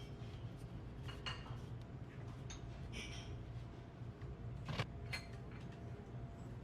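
Scattered clinks of dishes and cutlery over a steady low hum of the room's ventilation.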